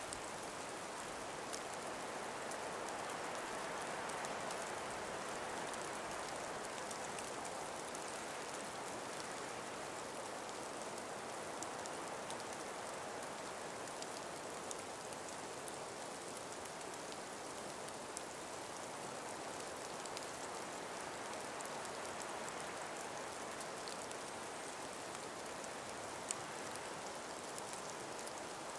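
Calm winter breeze through an ice- and snow-laden forest: a soft, steady hiss with faint scattered ticks.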